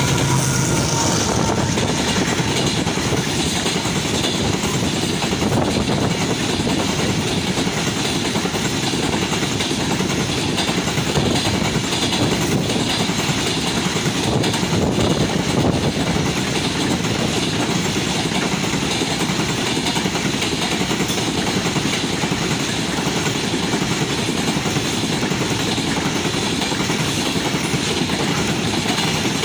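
Long coal train running past at speed: steady rolling noise of steel wheels on rail, with a rhythmic clickety-clack from the wagons going over the rail joints.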